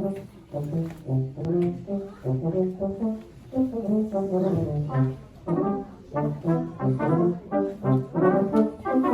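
Brass quartet playing a passage of short, separated notes, higher parts moving over a low bass line.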